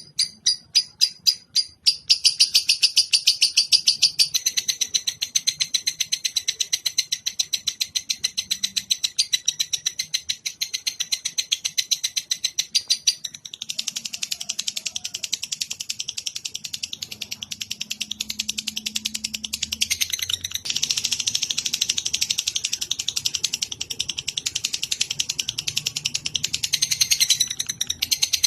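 Recorded songbird chatter used as masteran for cage birds: a few evenly spaced high chirps, then about two seconds in a fast, continuous high-pitched trill that goes on with short breaks about 13 and 20 seconds in.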